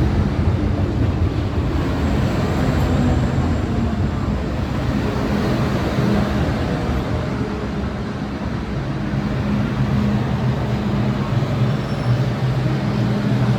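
MTR Kwun Tong line M-train running between stations, heard from inside the car: a steady rumble of wheels on the rails with a low, even hum from the train's motors.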